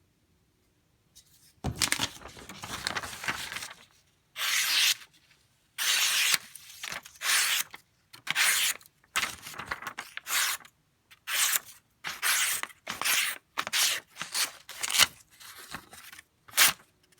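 A knife blade making a series of about fifteen scraping strokes, the first a long one, then shorter and quicker ones in the second half.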